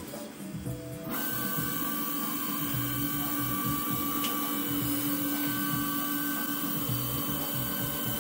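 Roland PNC-2300A desktop CNC engraving machine starting up about a second in, then running steadily: spindle and drive motors with several steady tones over a mechanical noise.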